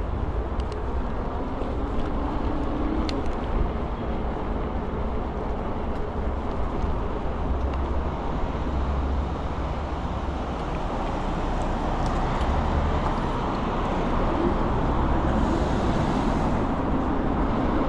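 Wind buffeting the microphone and road noise while riding an electric scooter through traffic. There is a brief hiss near the end.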